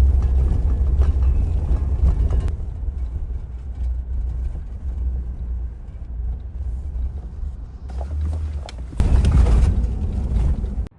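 Car driving over rough ground: a steady low engine and road rumble with scattered knocks and rattles, growing louder about nine seconds in and stopping abruptly just before the end.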